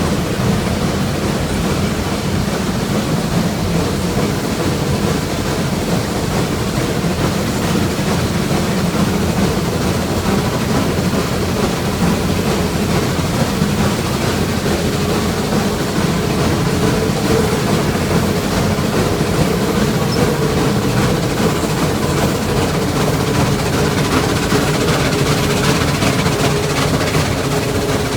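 Train running on rails: a steady rumble of wheel and car noise with a faint steady tone.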